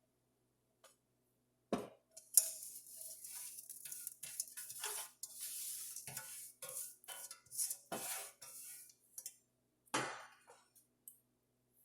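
Teaspoons clinking and scraping against a bowl as spice powders are tipped onto raw chicken pieces, with a few sharp knocks at about two seconds and near the end.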